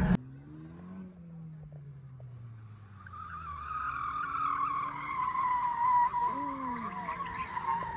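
A loud noise cuts off abruptly at the start, then a car engine revs up and falls away. From about three seconds in, tires squeal hard, the screech slowly dropping in pitch.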